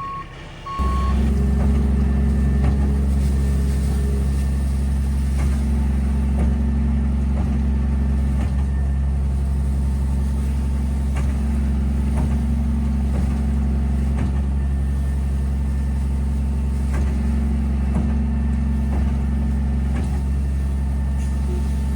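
Truck's diesel engine and hydraulics start up about a second in and run at a steady, loud drone, driving a walking-floor trailer as it unloads pine mulch, with faint irregular knocks. Reversing beeps end just as it starts.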